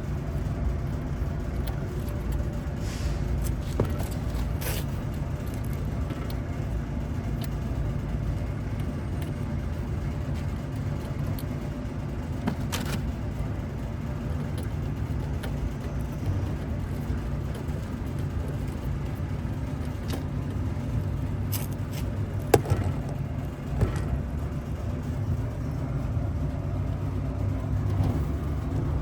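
Steady low mechanical rumble, with a few sharp clicks and taps scattered through it.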